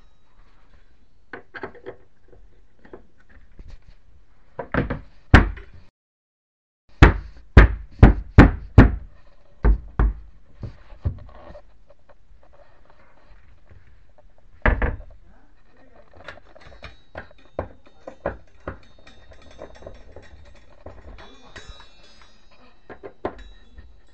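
Sharp knocks and thunks of cabinet hardware being worked on: a pair, then a quick run of about six, one more, then lighter clicks and taps.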